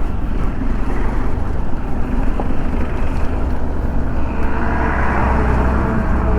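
Motorcycle running through slow traffic, a steady low rumble of engine and road noise; a higher-pitched vehicle sound joins about four seconds in.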